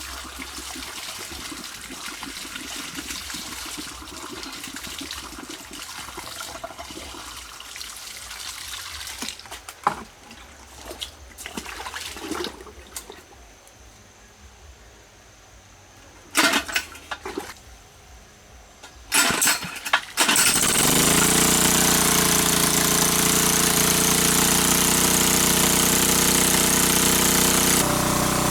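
Water running, then several sharp knocks, then a small engine starting suddenly about two-thirds of the way in and running steadily.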